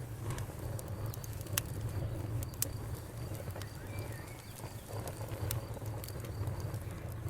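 Campfire crackling, with sharp pops of burning wood scattered irregularly over a low steady rumble. A bird gives a brief chirp about four seconds in.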